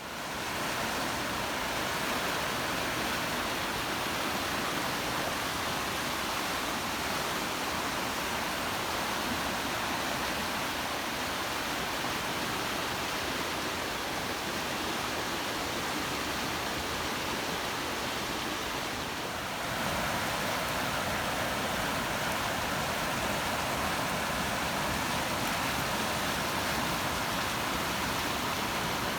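Heavy rain pouring down, a steady even hiss, a little louder from about two-thirds of the way in.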